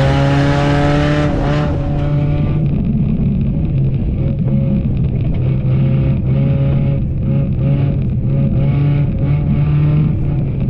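Racing car engine running hard under throttle, its pitch rising, then dropping off about two seconds in, then rising and falling unevenly with the throttle.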